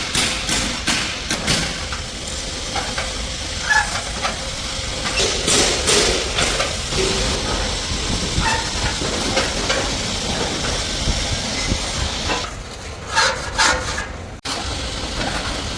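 Metalworking workshop noise: a steady hiss with scattered sharp taps and knocks, a quick cluster of them near the end.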